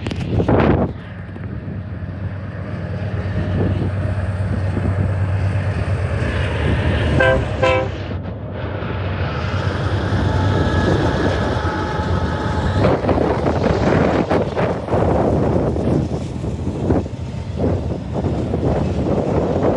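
Train running with a steady low engine drone, and two short horn toots about seven seconds in. From about two-thirds of the way through, a louder rumble with rapid knocks and clatter takes over as the train goes by.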